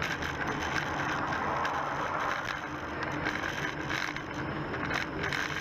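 Steady road and engine noise of a car driving, heard from a dashboard camera inside the cabin.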